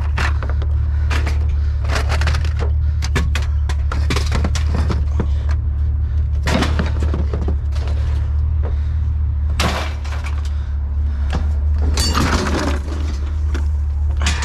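Scrap metal clattering and crashing as pieces are tossed and dropped, with many sharp irregular impacts over a steady low hum.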